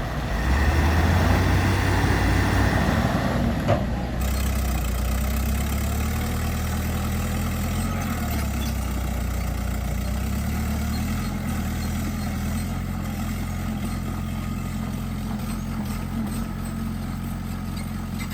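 Bulldozer's diesel engine working, louder and rougher for about the first four seconds, then running steadily at a lower level.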